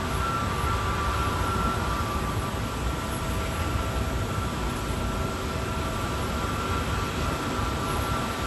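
Boeing 737-800 jet airliner on landing approach: a steady rush of its CFM56 engines with a thin whine, over the low, uneven buffeting of strong typhoon wind on the microphone.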